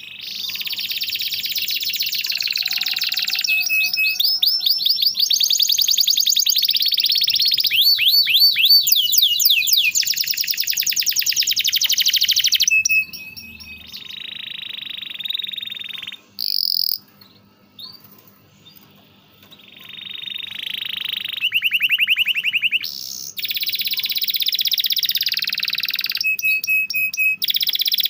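Domestic canary singing long, rapid trilled rolls of fast repeated notes, broken by chirps and sweeping notes. The song softens and nearly pauses for a few seconds about halfway through, then comes back.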